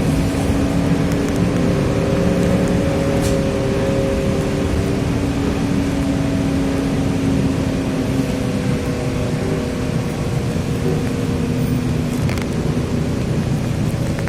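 A TrolZa-5275.05 Optima trolleybus under way, heard from inside: a steady whine of several tones from the Ishimbay rear drive axle and the DK-213A traction motor, over a steady hiss of road noise.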